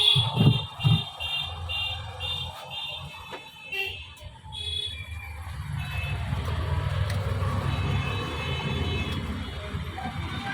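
A vehicle's horn or alarm beeping rapidly, about two and a half beeps a second, for the first five seconds, then a vehicle engine running with a steady low rumble.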